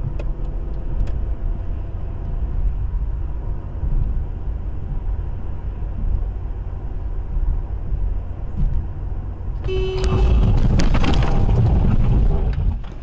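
Car on the road with a steady low road and engine rumble. About ten seconds in a car horn sounds briefly, then a loud, rough noise lasts a couple of seconds before dying down.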